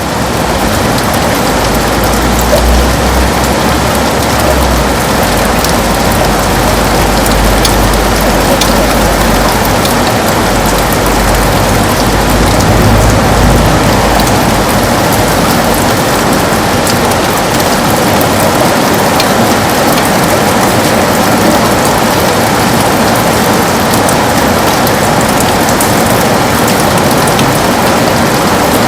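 Heavy rain falling steadily on a window, a dense even hiss with scattered drop ticks. A low rumble runs under it through roughly the first half.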